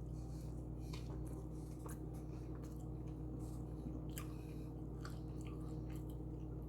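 Close-up chewing of a toasted tuna sub, with faint soft crunches about once a second over a steady low hum.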